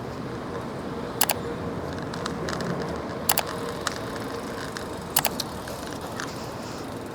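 Bicycle riding over pavement: a steady rumble of tyres and moving air, broken three times by sharp double clicks about two seconds apart, with a few lighter ticks between.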